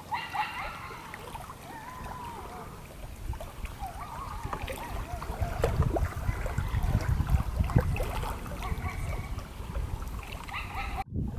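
Water splashing and wind buffeting the microphone, turning into a heavy low rumble about halfway through. Faint distant voices call out in the first half, and the sound cuts off abruptly just before the end.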